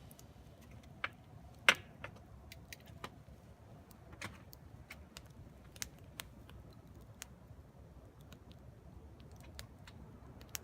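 Wood fire in a fire pit crackling: irregular sharp pops and snaps over a faint low hiss, the loudest pop about two seconds in.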